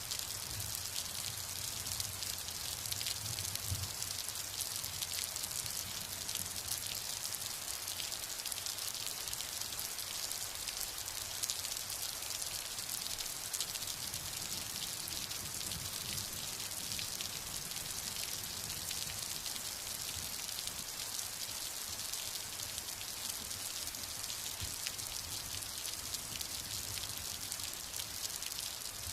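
Steady heavy rain falling, a dense hiss with fine patter of individual drops. A low rumble of distant thunder fades out in the first few seconds.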